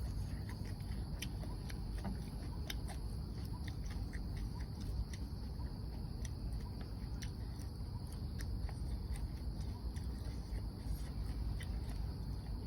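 A person chewing food, with scattered small wet clicks and smacks from the mouth over a steady low rumble.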